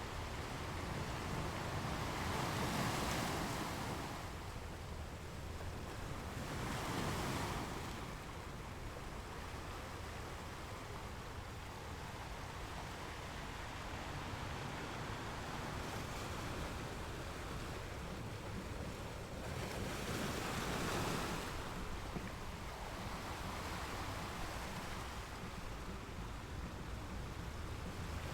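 Ocean surf: a steady wash of waves, with three louder waves breaking about three, seven and twenty-one seconds in.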